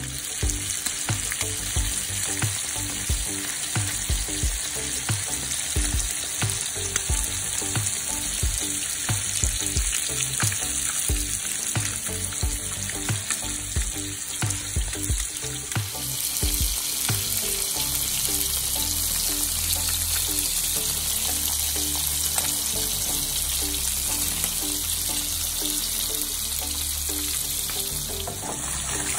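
Trout fillets frying in butter in a pan: a steady, crackling sizzle. About halfway through the sizzle turns smoother and denser.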